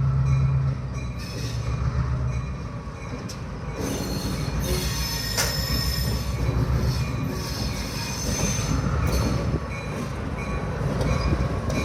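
A single EMD GP38 diesel locomotive running light past, its 16-cylinder two-stroke diesel engine humming low at first. From about four seconds in its steel wheels squeal high and thin against the rails over the rumble of the wheels.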